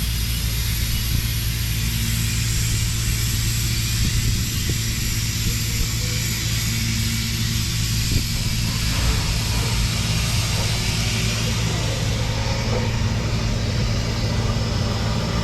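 Sandblasting rig at work: an air compressor's engine drones steadily under the continuous broad hiss of abrasive blasting.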